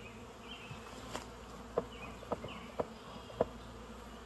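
A honeybee swarm buzzing steadily, with a series of about five short sharp knocks in the middle.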